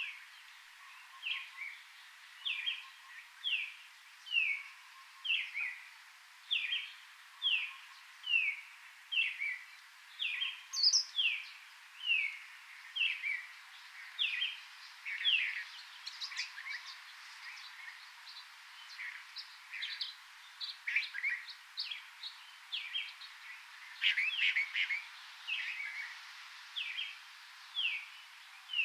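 A forest bird calling over and over in short, downward-slurred chirps, about one a second, with a stretch of quicker, higher, shorter notes midway, over a faint background hiss.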